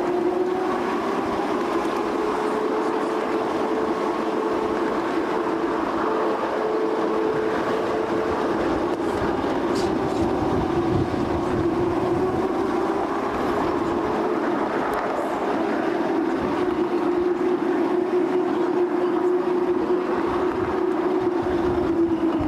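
Talyllyn Railway narrow-gauge coach running along the track: a continuous rolling rumble with a steady droning whine from the wheels on the rails that dips and rises slightly in pitch.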